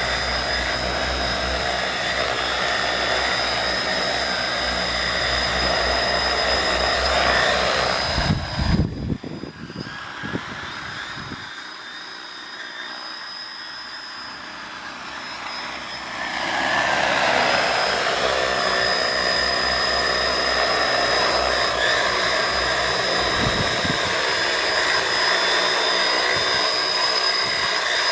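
Multirotor agricultural spraying drone in flight, its propellers giving a steady many-toned whine. About eight seconds in there is a brief low rumble, then the sound drops quieter for several seconds before coming back to full strength.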